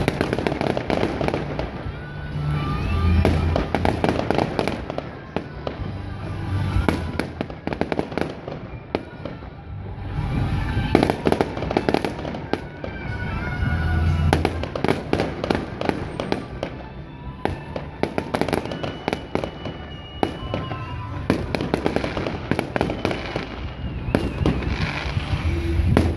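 Aerial fireworks shells bursting, with many sharp bangs and crackles that come densest about halfway through. Music plays underneath.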